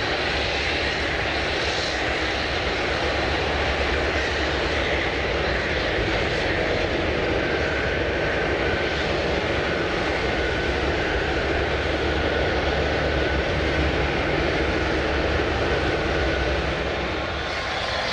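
Jet airliner engines running with a steady, loud noise and a faint high whine above it.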